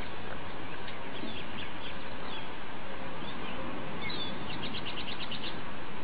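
Small birds chirping in short separate notes, then a quick trill of about nine even notes near the end, over a steady background hiss.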